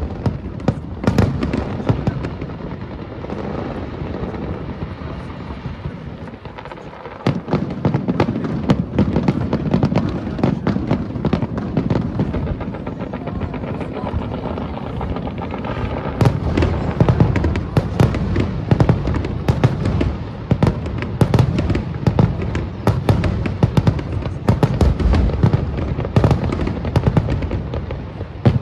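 Fireworks display: a rapid run of shell bursts and crackling, easing briefly about seven seconds in, then picking up again, with denser volleys from about sixteen seconds.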